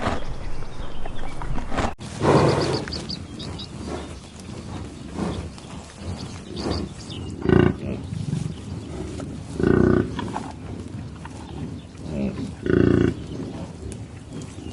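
Farm animal calling: four loud, short, low calls with pauses of a few seconds between them, and fainter animal sounds in between.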